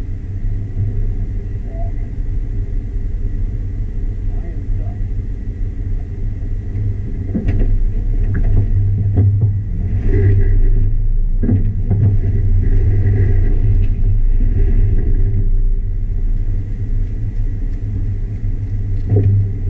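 Jeep Wrangler engine running at low speed off-road, a steady low rumble that grows louder through the middle, with several sharp knocks.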